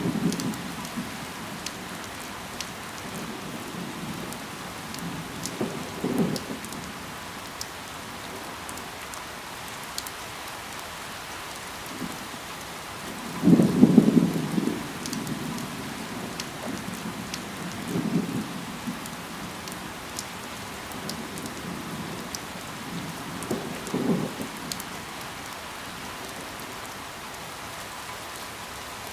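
Steady rain falling on leaves, with scattered fine drop ticks. Five brief low thuds break through at intervals, the loudest about halfway.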